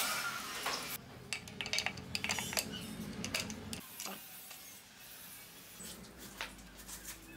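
Light metallic clicks and clinks at irregular intervals, from small metal parts and hand tools being handled and set down, with a quieter stretch in the second half.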